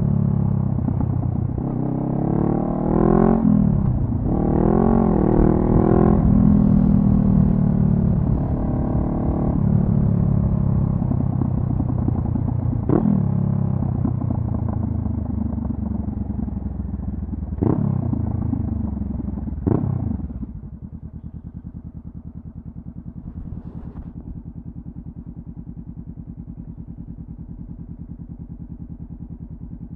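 2014 Honda CB500F parallel-twin engine through a Delkevic carbon slip-on exhaust: revs rise under acceleration, then fall away as the bike slows, with a few sharp cracks along the way. About two-thirds of the way in it settles to a quieter, steady idle.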